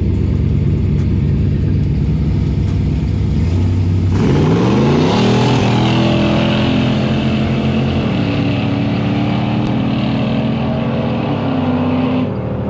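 A cammed car engine idling with a lumpy, pulsing rumble, then revved hard about four seconds in: the pitch climbs and holds at high revs with a hiss for about eight seconds before dropping back near the end.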